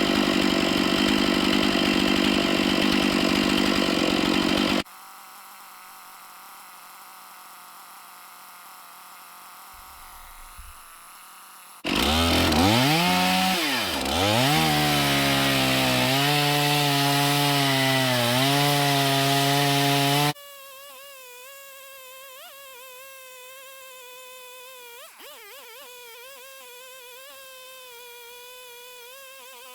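Stihl 461 chainsaw running at full throttle in an Alaskan mill, ripping along a large white pine log. It is heard in two stretches, each cut off abruptly into a much quieter hum. In the second stretch the engine pitch dips and recovers as the saw loads in the cut.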